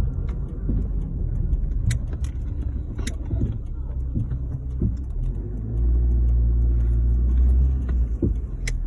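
Chevrolet Lanos 1.5 on the move, with steady low road-and-engine rumble that grows heavier about two-thirds of the way through. A few sharp knocks break through, around two and three seconds in and again near the end: the intermittent front-end knock that appears while driving.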